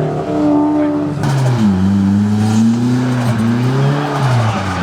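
A car's engine pulling hard under throttle. Its pitch drops about a second in, climbs slowly over the next few seconds, and falls off near the end.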